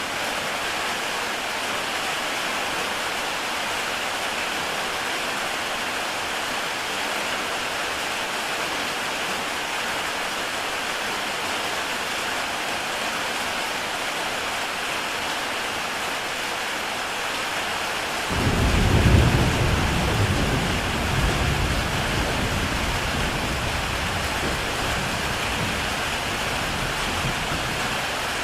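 Heavy rain falling steadily on a tile roof. About two-thirds of the way through, a roll of thunder starts suddenly, is loudest just after it begins, then rumbles on and slowly fades.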